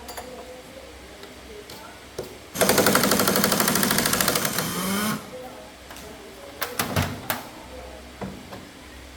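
Pneumatic air-powered tool, most likely an impact wrench, hammering rapidly in one burst of about two and a half seconds, starting about two and a half seconds in. A few sharp clicks or knocks follow.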